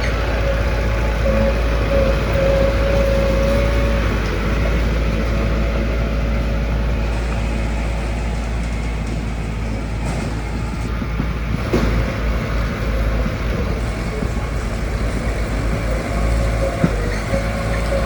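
Heavy road-construction machinery, dump trucks and a bulldozer, running steadily with a constant engine noise. A thin steady whine rides over it near the start and again near the end.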